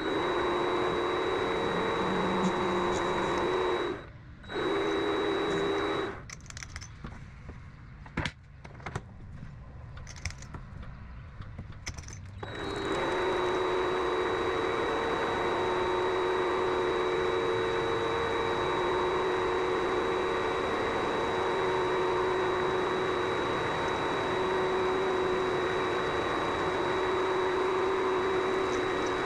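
Vevor MX400 mini lathe motor running with a steady whine. It stops briefly about four seconds in, then is off for several seconds while clicks and knocks of handling are heard. It starts again at about twelve seconds and cuts off suddenly at the end.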